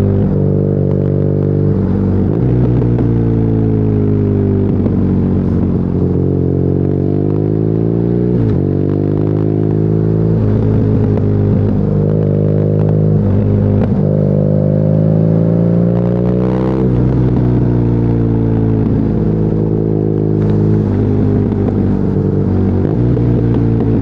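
BMW R nineT's 1170 cc air/oil-cooled boxer twin through an Akrapovic exhaust, pulling under acceleration: the engine note climbs, then drops suddenly at each upshift, about three times, before running steadier near the end.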